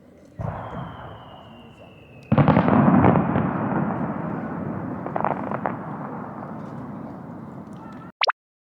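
Fireworks exploding at a distance: a thin whistle, then a loud burst about two seconds in that fades with scattered crackles. The sound cuts off abruptly near the end, followed by a brief chirp.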